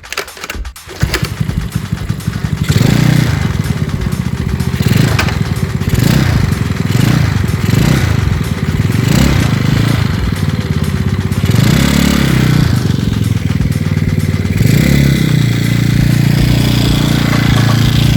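Yamaha Mio scooter's single-cylinder four-stroke engine, modified for grasstrack, revved up and down repeatedly, then held at a steadier higher speed near the end. The owner likens its sound to a klotok boat engine.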